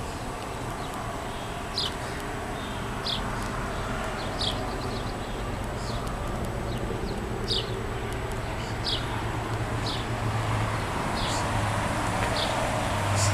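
A vehicle engine running steadily with a low hum that grows slightly louder near the end, while a bird gives short, high, falling chirps about once every second or so.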